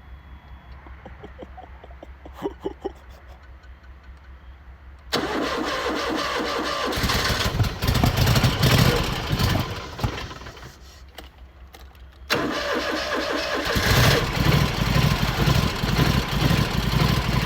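Lawn mower engine starting about five seconds in and running, then falling away as if about to stall, and starting again a couple of seconds later to run steadily and loudly. The mower is in need of a tune-up, and the dying-out gives a scare before it catches.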